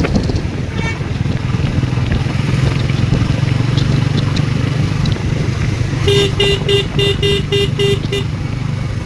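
Motorcycle engine running steadily while riding, with traffic noise around it. About two-thirds of the way in, a vehicle horn sounds a rapid run of about eight short beeps.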